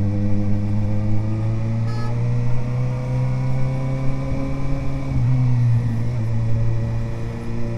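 Suzuki GSR 750 inline-four with an Ixrace Z7 aftermarket exhaust, running under way as the bike gently accelerates. Its note rises slowly for about five seconds, then steadies at a constant pace.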